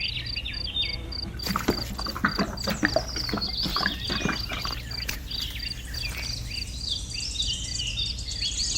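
Insect chirping in a steady pulse of about five a second, with many short bird-like chirps and scattered small clicks and knocks over a steady low hum.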